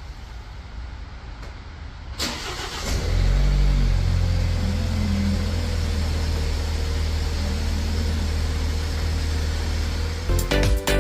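BMW G30 5 Series engine starting: a short crank about two seconds in, a brief rise in revs as it catches, then a steady idle. Music comes in near the end.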